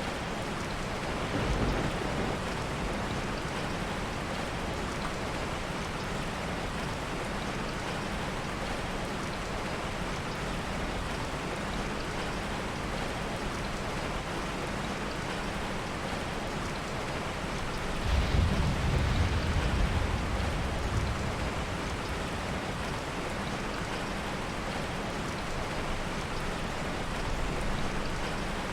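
Heavy rain falling steadily, with a low roll of soft thunder about two-thirds of the way through and a fainter rumble near the start.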